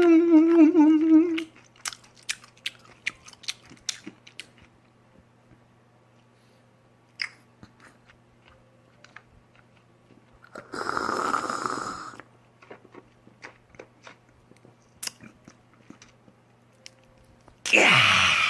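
A person eating grilled pork belly: a loud, wavering hummed "mmm" of enjoyment at the start, then chewing with small wet mouth clicks. A noisy rush of about a second comes around eleven seconds in, and another just before the end.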